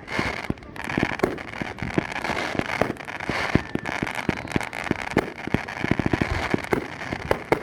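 Fireworks going off many at a time: a rapid, unbroken string of sharp bangs and crackling.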